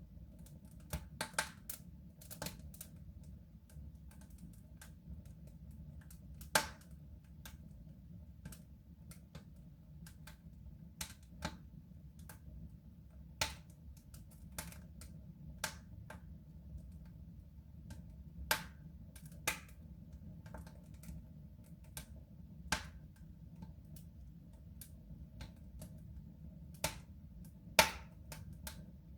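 Wood fire burning in a soapstone stove: irregular sharp pops and cracks of the burning wood, one or two a second, over a steady low rumble of the flames, with the loudest crack near the end.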